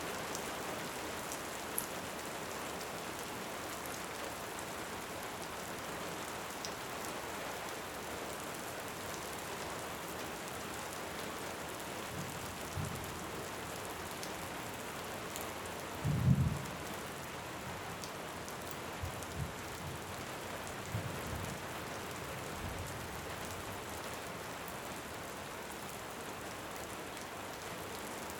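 Steady heavy rain with distant thunder: a deep rumble a little past halfway, the loudest sound, followed by several fainter rumbles. A few faint crackles of a wood fire sit on top of the rain.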